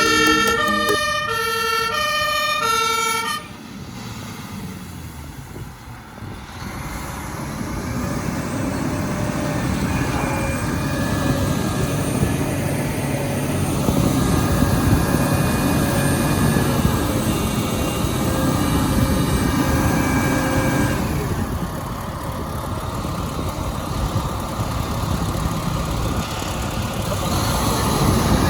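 A few seconds of music with bright piano-like notes, then a heavy engine rumble that builds from about six seconds in, with steady whining tones over it through the middle.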